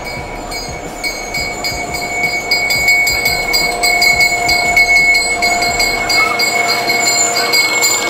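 Trinity Railway Express commuter train rolling along the platform, its wheels rumbling and clicking on the rails with a steady high squeal, growing louder as it comes close.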